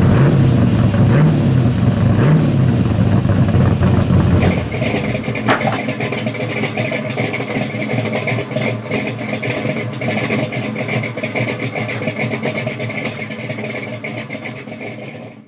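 A 1980 Chevrolet Malibu's engine idling with a loud, deep exhaust note, blipped up in revs twice in the first couple of seconds. About four and a half seconds in, the engine sound cuts off and a quieter sound takes over, with a steady high tone and rapid crackling, which fades out at the end.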